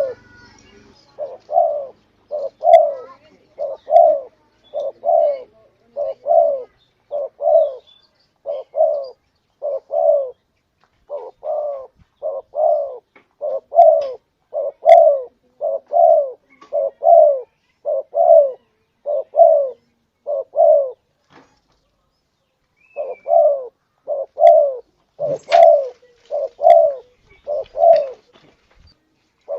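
Spotted dove cooing over and over, a long run of low, evenly spaced coo notes with one break of about two seconds near the end. It is a recorded call played as a lure to draw wild doves in.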